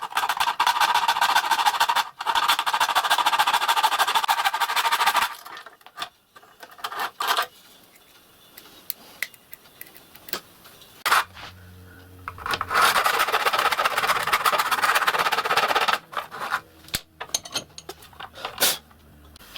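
Cutting a slot in a plastic table-saw blade guard: two spells of rapid, fine rasping strokes, the first about five seconds long and the second about three, with scattered small knocks and handling between.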